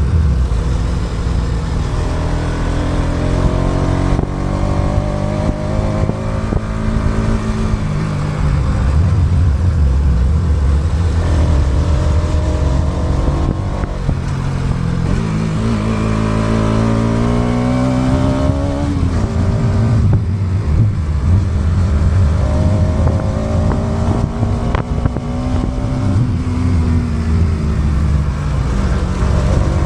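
Motorcycle engine under way, its pitch climbing with acceleration and dropping back several times as the throttle is eased and gears change, over a heavy low rumble of wind on the microphone.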